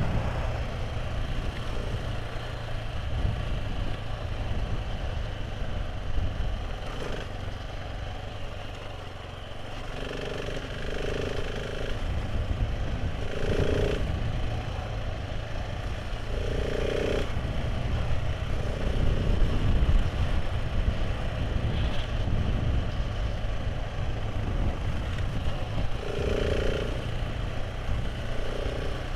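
Motorcycle engine running steadily while riding, with road and wind noise. The engine dips briefly about nine seconds in.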